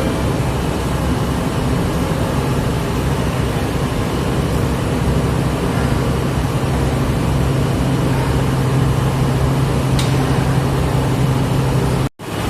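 Large engine running steadily with a constant low hum. It cuts off suddenly near the end.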